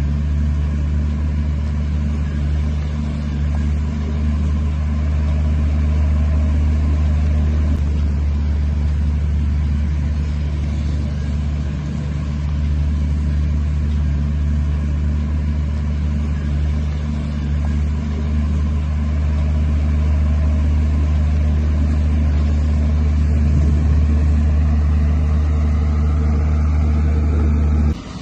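Heavy diesel engine of earthmoving machinery running steadily under load, a deep even drone that cuts off abruptly near the end.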